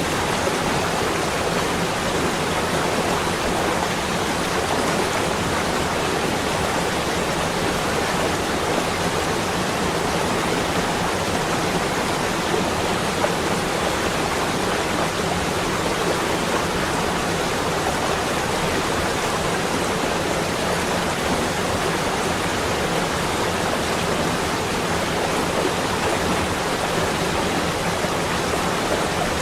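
A steady, even rushing hiss with no distinct events, at a constant level throughout.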